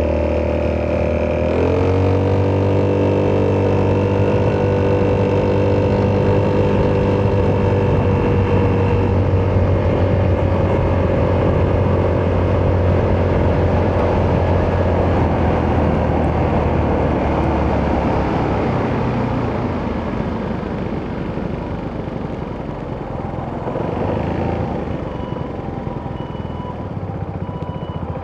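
Italjet Dragster 200 Malossi Edition's single-cylinder four-stroke engine through an Akrapovic exhaust, under way with a steady engine note. The note shifts about a second and a half in, and the engine eases off and gets quieter in the second half.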